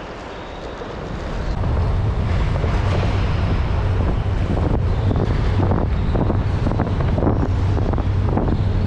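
Wind buffeting an action-camera microphone on a rider at speed on a track bike. It grows much louder about a second and a half in, then holds as a steady low rumble.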